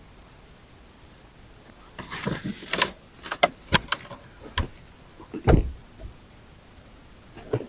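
A run of knocks and scrapes from wood being handled, starting about two seconds in, with the heaviest thump about five and a half seconds in and one more knock near the end.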